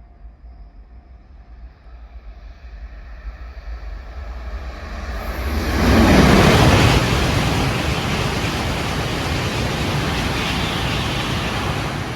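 Shinkansen bullet train passing at high speed without stopping: a rising rush of air and wheel noise that peaks in a sudden blast about six seconds in as the nose arrives, then a steady roar as the cars stream by, starting to fade near the end.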